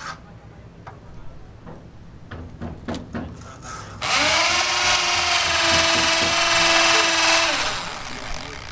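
A few light knocks, then a handheld electric power tool starts suddenly about four seconds in. It runs at a steady pitch for about three and a half seconds and then dies away.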